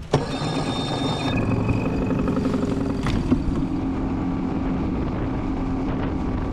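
Jon boat's outboard motor running at a steady pitch, the boat under way.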